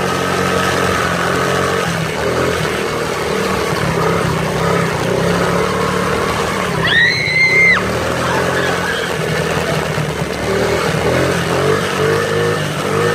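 Dirt bike engine running steadily, with a brief high-pitched tone about halfway through.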